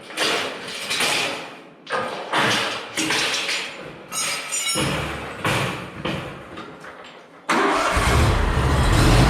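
A series of short scuffing and handling noises, then near the end a Scag zero-turn mower's engine starts and settles into a steady run.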